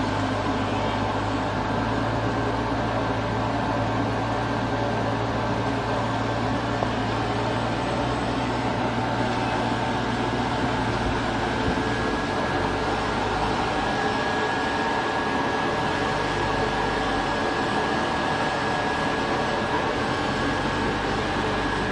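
Sawdust flash dryer plant running: steady machinery noise with a constant high whine. A low hum drops away about twelve seconds in.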